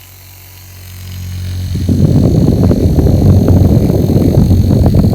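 Small early-1970s battery-powered handheld fan running. Its motor hum swells over the first two seconds, then holds as a loud, rough, steady whirr.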